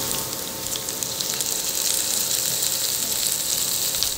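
Chopped onions and garlic sizzling in hot oil, with small crackles. The sizzle grows louder about a second and a half in, as pieces of raw pork belly go into the pan.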